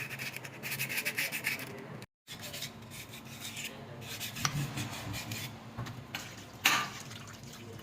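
Rapid, even rubbing or scraping strokes by hand, then after a short cut, scattered light clinks and one sharp knock near the end.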